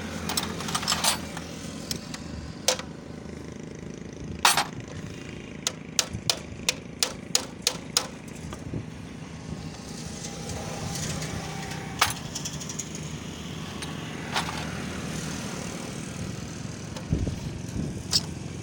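Metal hand tools knocking and clinking on motorcycle parts, including a run of about nine quick, even taps, roughly three a second, partway through. A steady low vehicle rumble runs underneath.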